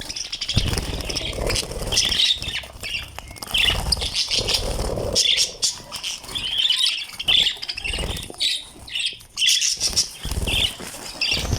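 Small birds chirping in quick short notes, over bursts of wing flapping and fluttering.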